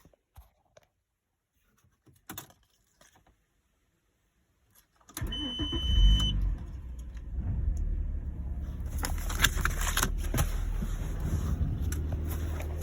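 A few light clicks and jingles of keys, then about five seconds in the Audi 2.8 V6 (ACK) engine cranks and starts, flaring once and settling into a steady idle. A thin high tone sounds during the cranking.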